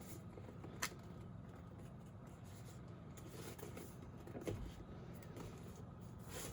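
Faint handling of product packaging being worked open by hand: one sharp click a little under a second in, then soft scraping and rustling about four and a half seconds in.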